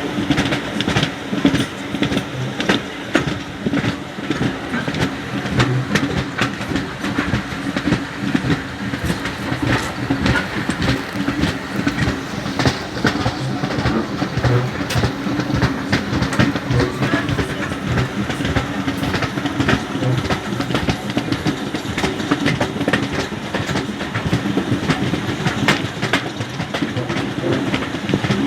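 Heritage railway train running along the track, heard from on board: a steady rumble with wheels clicking and clattering over the rail joints.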